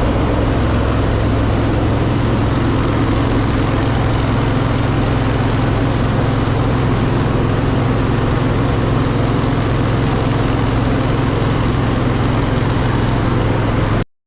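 Grain-handling machinery transferring dry corn between bins, running at a steady loud drone with a deep hum; it cuts off suddenly near the end.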